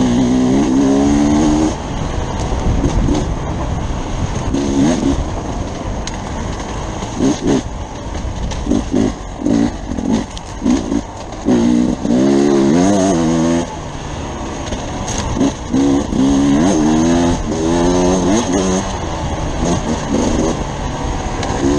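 Beta RR enduro motorcycle engine close up, repeatedly revving up in pitch as it accelerates and dropping back, with a run of short throttle blips through the middle.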